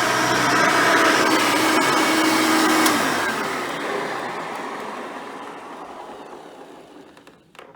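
Hoover Elite 600 upright vacuum with a 6-amp motor and single-row brush roll running steadily. It is switched off about three seconds in, and the motor and brush roll wind down over several seconds until they are nearly silent.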